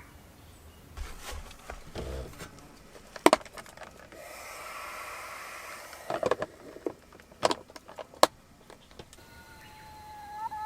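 Camp gear being handled: a few sharp clinks and clicks, with a soft hiss between about four and six seconds in. A small bird calls near the end.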